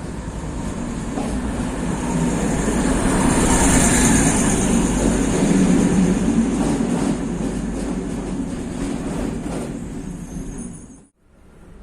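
A train passing close by, its rumble building to its loudest about four to six seconds in, with a thin high squeal from the wheels; the sound cuts off suddenly near the end.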